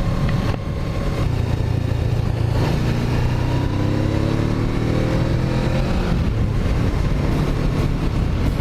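Suzuki GS500F motorcycle's parallel-twin engine running under way, rising in pitch for a few seconds in the middle as it accelerates, then holding steady.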